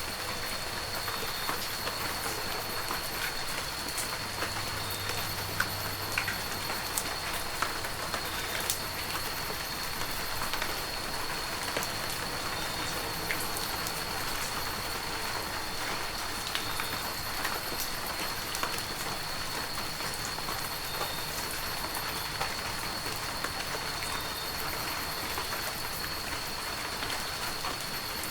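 Heavy rain falling steadily, with individual drops pattering in sharp little clicks, and a thin steady high tone running through it.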